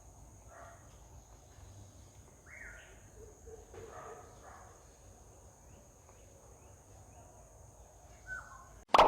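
Faint outdoor ambience with scattered short bird chirps over a steady high-pitched insect drone. A loud sudden sound cuts in at the very end.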